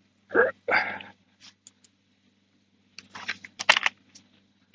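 Chainsaw bar nuts being tightened down with a wrench after a chain-tension adjustment: two short sounds about half a second in, then a quick run of metallic clicks and rattles near the end.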